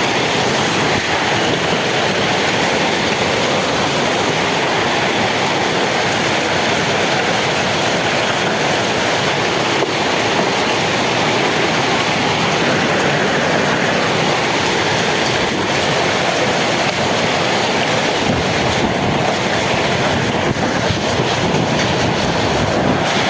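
Hailstorm: hailstones pelting down in a dense, steady clatter that does not let up.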